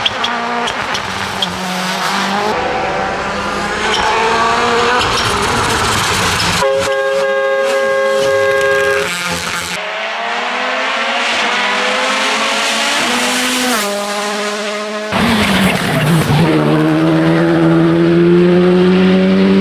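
Turbocharged rally cars at full throttle on tarmac stages, engines revving up and shifting through the gears again and again, in several short clips cut together. One stretch about seven seconds in holds a steady high engine note for a couple of seconds.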